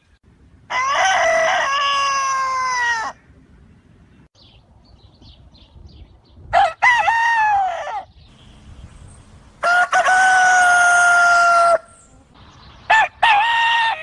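Rooster crowing four times, a few seconds apart, each crow a quick rise into a long held call.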